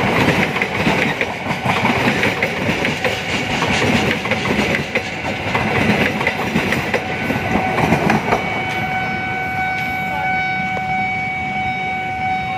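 Passenger train coaches rolling past at close range, their wheels clattering over the rail joints. About eight seconds in the clatter fades and a steady high tone takes over.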